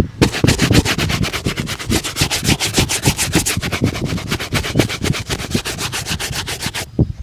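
A shoe being buffed with rapid back-and-forth rubbing strokes, about ten a second, in an even rhythm that stops briefly near the end.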